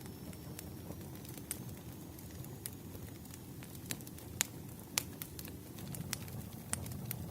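Wood fire burning: a steady low rush with scattered sharp crackles and pops, the two loudest pops about four and a half and five seconds in.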